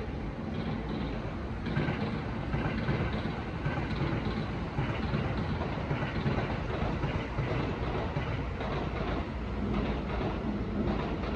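Steady rumbling vehicle noise with no clear rhythm or tone.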